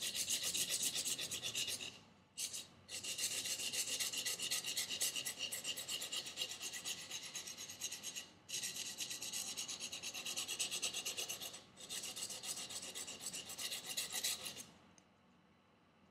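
Convex knife edge being stroked rapidly across coarse sandpaper backed by a leather strop, a scratchy rasp while the edge is reprofiled. It goes in four runs with brief pauses between them and stops about a second before the end.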